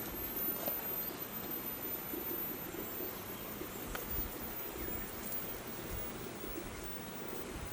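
Steady outdoor background noise: an even hiss and low rumble with a few faint ticks.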